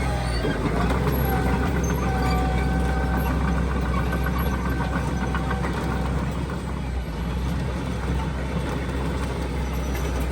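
Diesel engine of heavy earthmoving machinery running steadily, with a faint high whine from about one to five seconds in.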